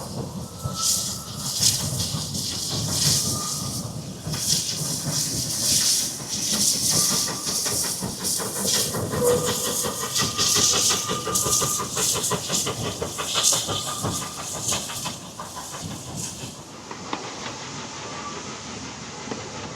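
Narrow-gauge steam locomotive working, with a run of hissing exhaust beats and escaping steam. It grows quieter near the end.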